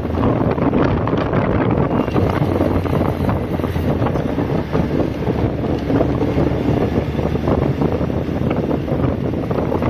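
Wind buffeting the microphone at riding speed over the steady drone of a 2005 Honda CB1300's inline-four engine.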